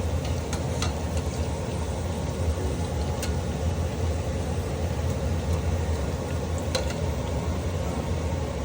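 Calamari deep-frying in hot oil, a steady sizzle over a low hum, with a few light clicks.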